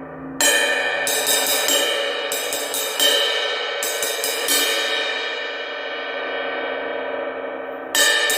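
18-inch Omete Knight Series crash cymbal struck with a stick. About eight quick hits come in the first four and a half seconds, then the cymbal is left ringing and fading for about three seconds before it is struck again near the end.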